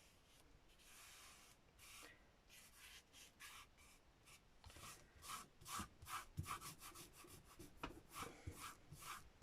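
Faint dry rubbing on a glued book cover, as fabric is smoothed onto the board and glue is rubbed off. It begins with a few soft strokes, then from about halfway becomes a quick run of short scratchy strokes, several a second.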